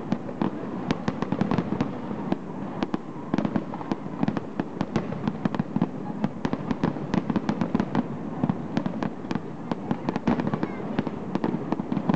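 Fireworks display: a dense, continuous run of sharp pops and crackles over a steady low rumble.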